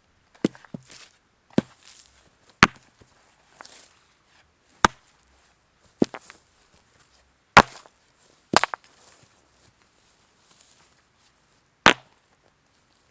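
Wood being chopped: a series of sharp, irregularly spaced chopping strikes, roughly one a second, with a longer pause before the last.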